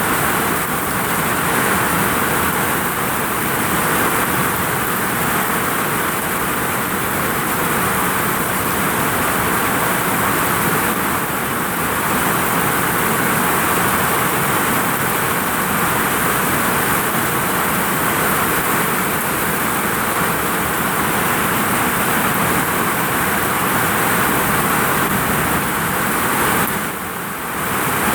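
Heavy rain pelting a vinyl roof in a steady rushing downpour, easing briefly just before the end.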